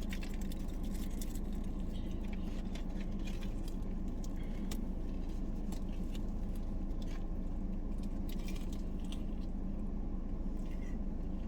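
Steady low hum of the parked car's idling engine and air conditioning, with scattered small clicks and crackles from eating and handling the takeout food and its packaging.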